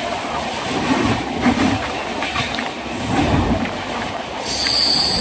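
Passenger train running at speed, heard through an open barred coach window: a loud, steady rumble of wheels on the rails. About four seconds in, a high, steady squeal joins it.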